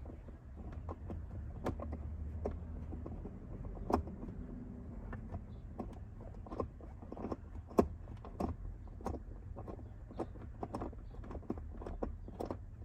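Irregular sharp clicks and knocks of hand tools and metal parts being handled while the seatbelt anchor bolt is fitted, over a steady low hum.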